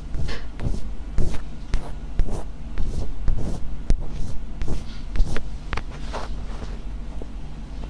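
ASMR scratching: short, crisp, irregular scratching strokes, two or three a second, over a steady low hum.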